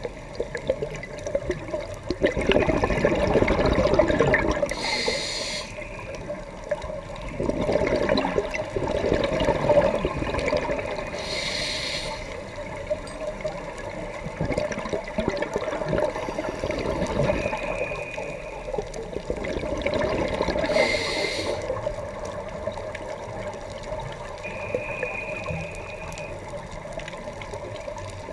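Scuba diver breathing through a regulator underwater: three short, high hissing inhales, each beside a long surge of bubbling exhaust bubbles, in a slow breathing rhythm.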